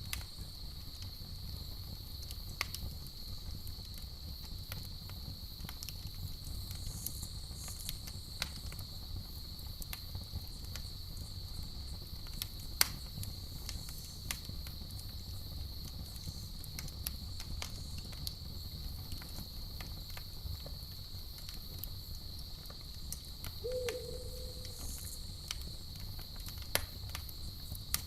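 Campfire crackling with scattered pops, one sharp pop about halfway through, over a steady high chorus of crickets. A single short, low hooting call sounds near the end.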